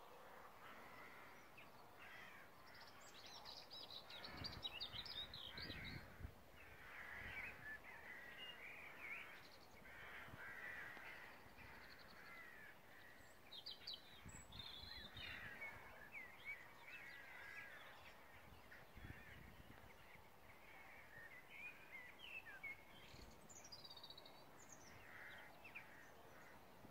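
Faint bird calls, many short overlapping calls and chirps going on throughout, with a few brief low rumbles underneath.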